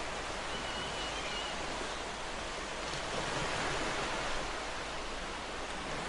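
Ocean waves: a steady rush of surf, with one wave swelling a little louder around the middle.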